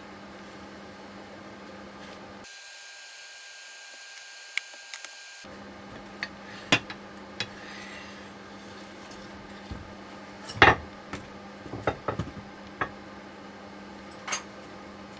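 Hand tools and metal parts clicking and knocking against each other in a dozen or so irregular sharp taps, the loudest about two-thirds of the way through, over a steady background hum.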